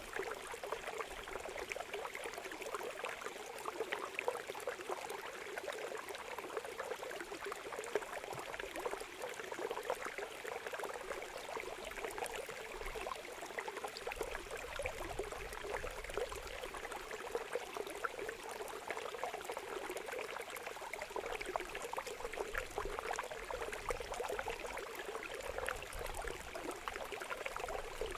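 Running water trickling and gurgling steadily, a continuous splashing stream sound.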